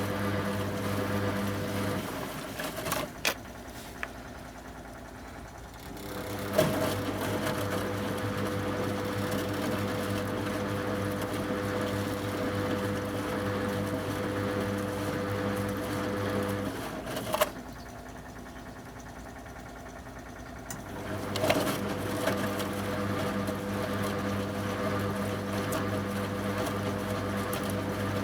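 1974 Zoppas Superautomatic 242 washing machine in its wash cycle: the drum motor hums steadily, stops about two seconds in, and starts again after about four seconds with a click. It runs about ten seconds, stops with a click, and starts again near the end, the on-off rhythm of the wash tumble.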